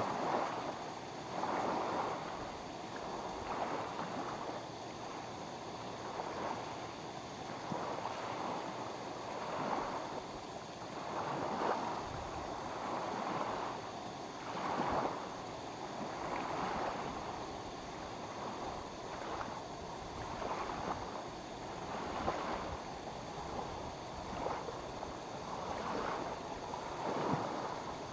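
Small lake waves lapping at the shore, washing in and out in irregular swells every one to three seconds.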